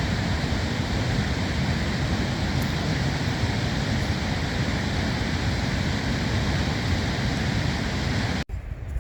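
Mountain stream rushing steadily, a constant roar of water that cuts off abruptly near the end.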